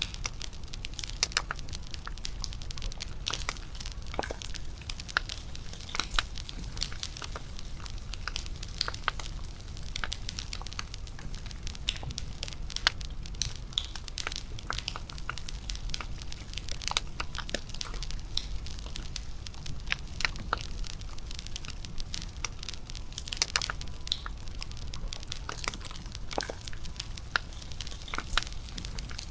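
Wood fire (bonfire) crackling, with many irregular sharp snaps over a low, steady rumble.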